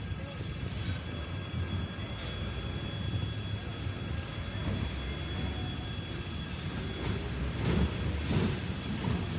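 Train hauled by a 2ES4K 'Donchak' electric locomotive running on the rails, a steady low rumble with a thin steady high wheel squeal. It grows louder over the last couple of seconds, with a few wheel clicks near the end as it comes closer.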